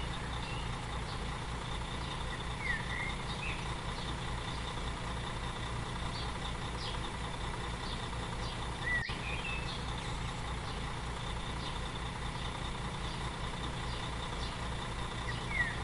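An engine idling steadily with an even, pulsing low rumble. A few short chirps sound above it, and there is a single click about nine seconds in.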